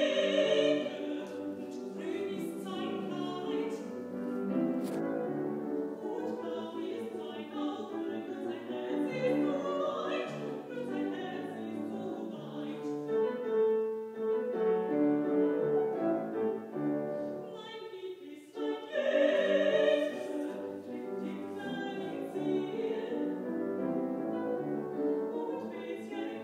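A woman singing classical repertoire in operatic style, with piano accompaniment. Her loudest held notes come at the very start and again about two-thirds of the way through.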